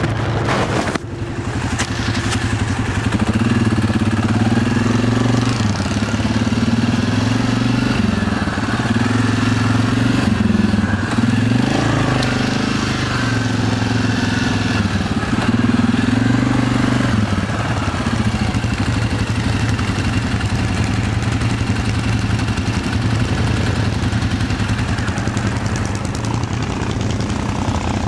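ATV engine running on a trail ride, its pitch rising and falling with the throttle for much of the time, then running steadier near the end. A few sharp knocks about a second in.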